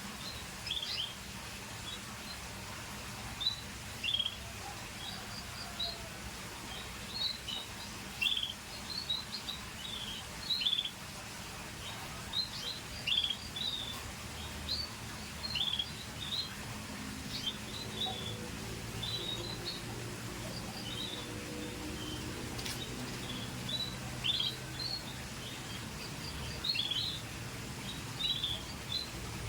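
Scotch Fancy canary chirping: short, separate high chirps, one or a few at a time, coming irregularly rather than as continuous song.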